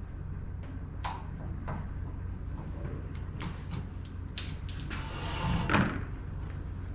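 Hand work on electrical wire and fittings: a few sharp metallic clicks, then a longer scrape about five seconds in, over a steady low hum.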